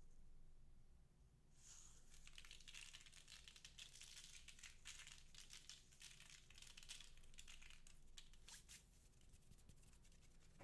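Faint, dense crinkling and crackling, mostly high-pitched, starting about a second and a half in, as slime-making materials are handled.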